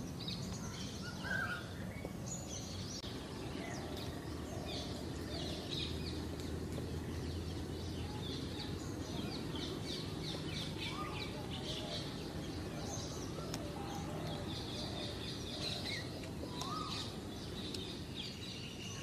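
Birds chirping over and over, many short high chirps, over a steady low background noise.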